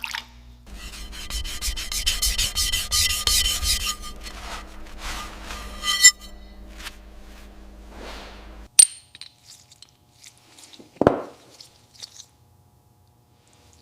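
A tool scrapes or rubs rusty metal in rapid repeated strokes over a steady hum, then stops abruptly about nine seconds in. A sharp click and a single thud follow.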